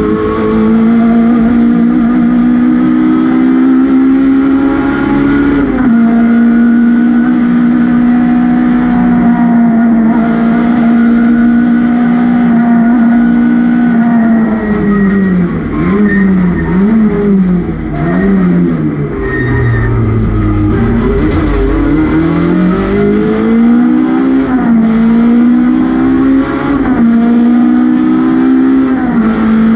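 An MG ZR rally car's four-cylinder engine, heard from inside the cabin, running hard at high revs. The pitch drops once at a gear change about six seconds in. Past the middle the revs swing up and down several times and dip low, then climb again through the gears.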